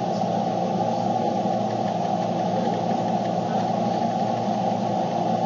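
Steady drone of a car's engine heard from inside the cabin, an even low hum with no sudden sounds.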